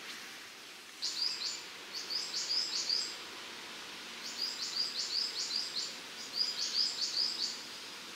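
A songbird singing in four short phrases of quick, high, chirping notes, each phrase a rapid run of repeated notes, over faint forest background.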